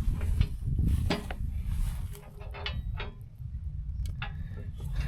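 Scattered metallic clinks and knocks of steel sawmill parts and hardware being handled, a few of them ringing briefly, over a low steady rumble.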